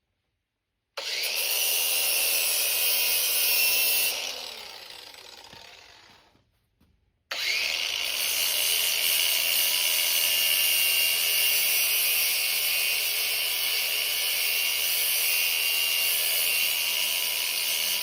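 Cordless angle grinder with a sanding disc, grinding the steel of a zero-turn mower blade to take off burrs. It spins up about a second in, runs for about three seconds and winds down, then spins up again about seven seconds in and runs steadily.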